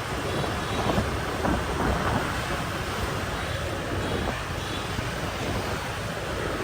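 Wind buffeting the microphone on a moving motorbike, a steady rumbling rush over road and traffic noise.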